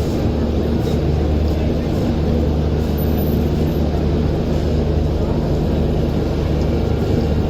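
Passenger train running steadily: a continuous low rumble with a steady hum underneath.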